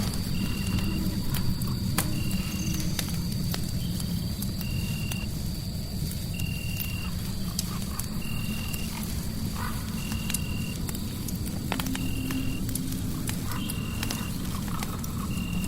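Fireplace fire crackling with scattered sharp pops over a steady low rumble, mixed with a short high chirp that repeats evenly about every two seconds and a faint steady high-pitched tone.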